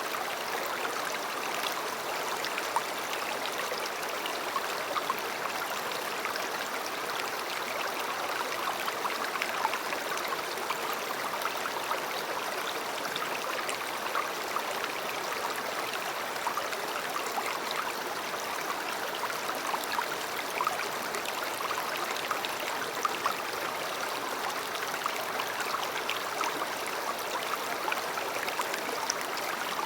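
A river flowing steadily: a continuous rush of water, flecked with many small splashes and gurgles.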